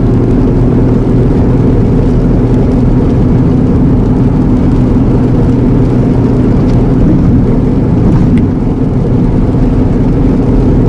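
Steady drone of a lorry's diesel engine with road noise, heard inside the cab of an Iveco Eurocargo truck on the move.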